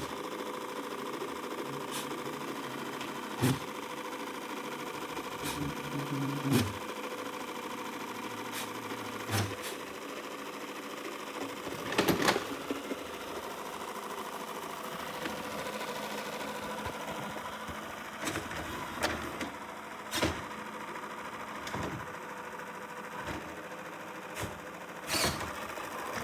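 Shark NeverTouch Pro robot vacuum running with a steady motor whir, broken by a dozen or so short knocks and clicks, the loudest about twelve seconds in.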